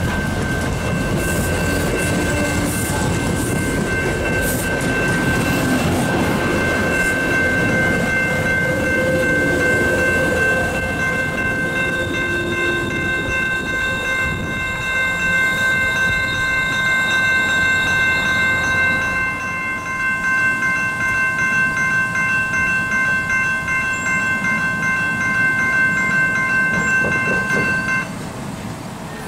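MBTA bilevel commuter rail coaches rumbling and clattering over a grade crossing, the noise fading as the end of the train passes. Under it the crossing's warning bell rings steadily, and it stops a second or so before the end.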